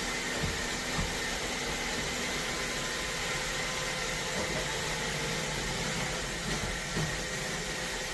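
iRobot Roomba Combo robot vacuum running, a steady whirring hiss with a faint steady whine in it. A few soft knocks can be heard near the start and again about seven seconds in.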